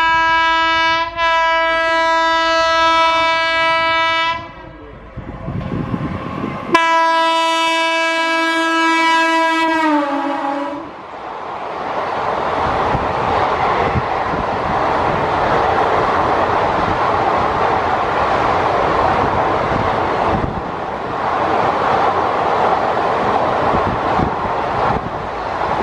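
Indian Railways electric locomotive sounding its horn on approach: one long blast with a brief break about a second in, then after a short gap a second blast that drops in pitch as the locomotive passes at speed. Then the steady rumble and clatter of the coaches rushing past on the rails.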